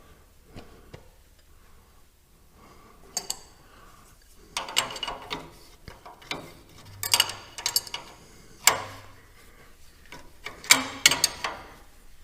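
Hand tools and metal parts clinking and clanking during mechanical repair work: irregular sharp metallic clanks and ticks, several ringing briefly, with the loudest near the end.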